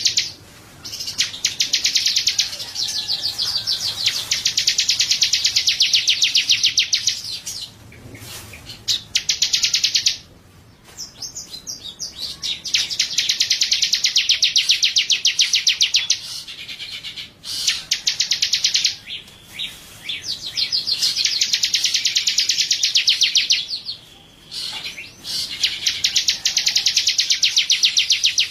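A songbird singing long, very fast, high trills, each lasting one to four seconds, with short pauses between them.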